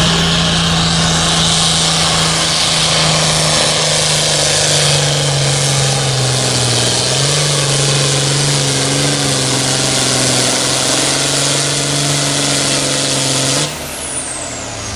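Pulling tractor's engine running hard at full throttle, loud and steady, its pitch dropping slightly about halfway through. Near the end the engine cuts off suddenly, leaving a high whine falling in pitch.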